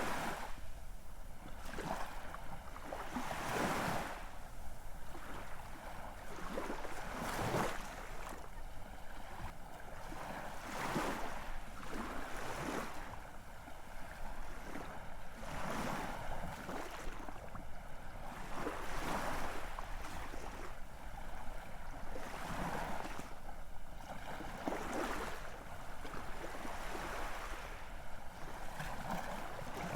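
Ocean waves washing in and breaking, a fresh surge of splashing every one to three seconds over a steady hiss of water.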